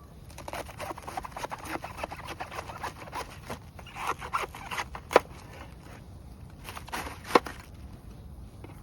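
Knife cutting through a cabbage on a cutting board: a run of quick crisp crunching cuts and taps, with two sharper, louder knocks of the blade on the board about five and seven seconds in.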